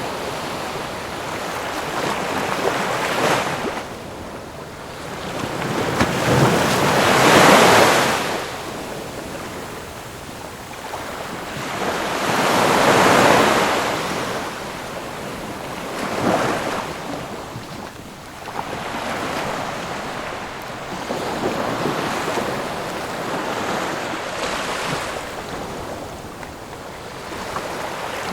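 Ocean waves breaking on a shore, each surge of surf swelling and washing back about every five to six seconds, the loudest crests near 7 and 13 seconds in.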